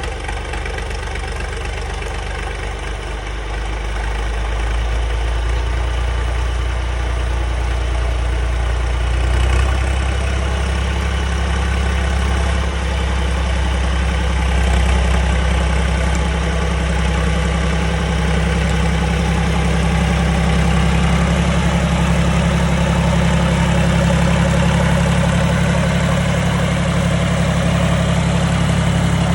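Old John Deere tractor engine running steadily. Its low, even note grows louder about four seconds in and again around ten seconds, then holds.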